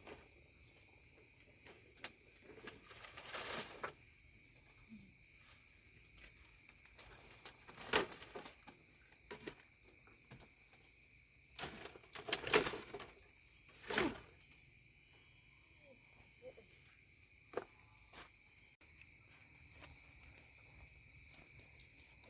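Steady high-pitched insect chirring, with short rustles and knocks now and then, the loudest about a third and halfway through.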